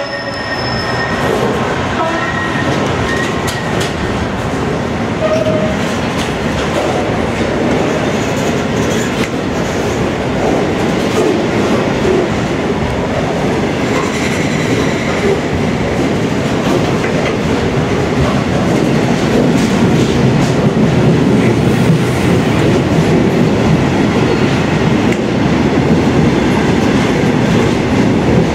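Coal hopper wagons of a freight train rolling past at close range, a continuous rumble and clatter of wheels on rails, with a few brief wheel squeals in the first few seconds. The rumble grows louder toward the end as the train gathers speed.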